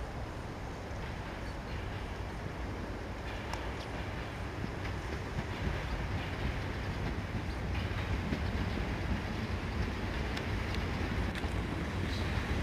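EP07 electric locomotive hauling passenger coaches and approaching, its rolling noise growing slowly louder. Sharp clicks of the wheels running over the track start a few seconds in.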